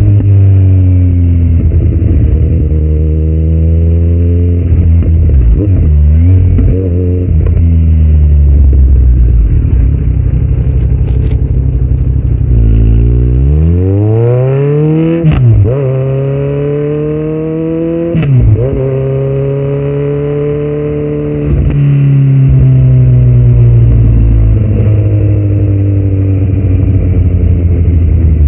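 Kawasaki Z900 inline-four through a Yoshimura muffler and Delkevic headers with no dB killer, ridden hard. The revs fall off the throttle, with a few sharp pops and crackles, then the engine pulls hard with a steep rising pitch through two upshifts, each dropping the revs suddenly, before it settles into a steady cruise.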